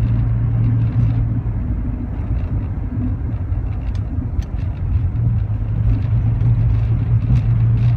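Rover 45 car heard from inside the cabin while driving: a steady low engine drone over road noise, growing a little louder about halfway through.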